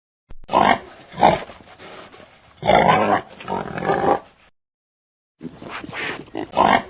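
A dog barking and yelping in short separate calls, with a silent break of about a second past the middle before the calls resume.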